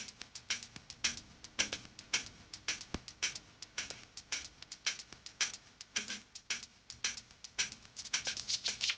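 An irregular run of short, light clicks and ticks, several a second.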